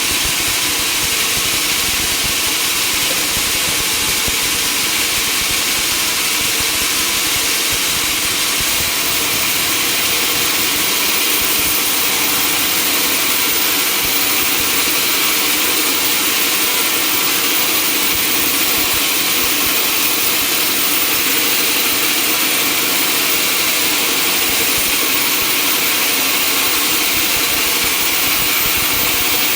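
Sawmill machinery running steadily: a continuous, loud mechanical noise, heaviest in the high range, with no let-up.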